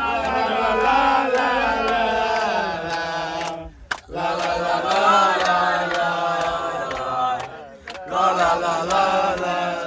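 Voices singing a football supporters' chant for Bursaspor in long held phrases, broken by two short pauses about four and eight seconds in.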